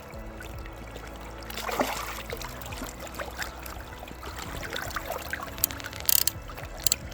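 Water splashing and trickling as a just-caught grayling is handled at the river's edge, over background music, with a few sharp clicks near the end.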